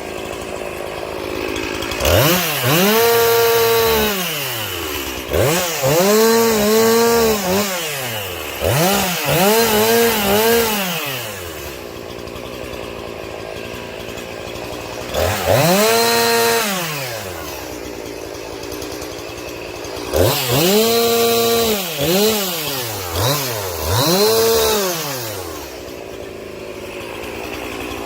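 Two-stroke chainsaw revving up from idle again and again to cut firewood. Each run climbs in pitch, holds for one to several seconds, then drops back to a steady idle. There are several runs, with a longer idle stretch in the middle.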